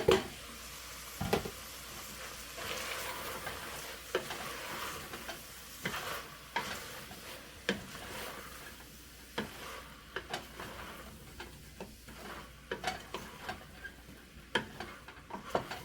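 Freshly added onions sizzling in a hot frying pan as they are stirred, with a utensil clicking and knocking against the pan at irregular moments.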